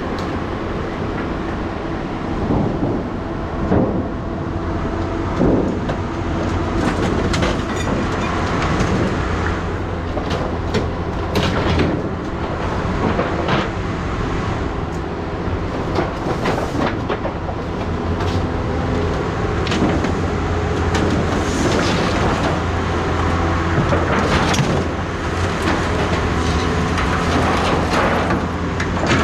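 A vehicle engine running steadily, with frequent metallic rattles and knocks over it.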